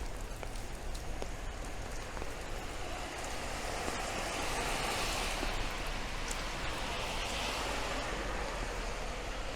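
Steady rain falling and pattering, with the swelling hiss of a vehicle's tyres on the wet road passing by through the middle and fading near the end.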